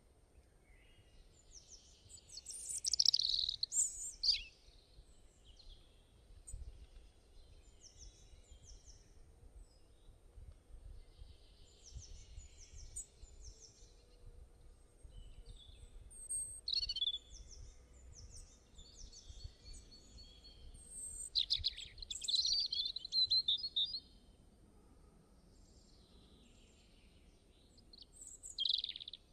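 Songbirds chirping and twittering in short high calls, with louder bursts of song about three seconds in, again for a couple of seconds past the twenty-second mark, and briefly near the end. A faint low rumble runs beneath.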